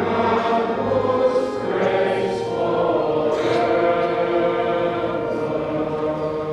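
Choir singing a hymn in long held chords.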